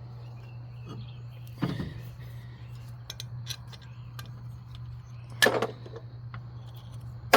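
Metal tools and brake parts clanking a few times during front brake caliper work, the loudest clank about five and a half seconds in, over a steady low hum.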